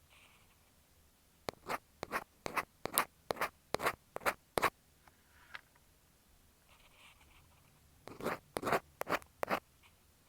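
Ear pick scraping over an earphone microphone in short, quick strokes: a run of about ten strokes, a pause with faint rubbing, then a few more strokes near the end.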